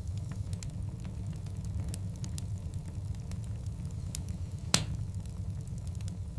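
Wood fire burning in a fireplace: a steady low rumble of flames with scattered sharp crackles, and one loud pop about three-quarters of the way through.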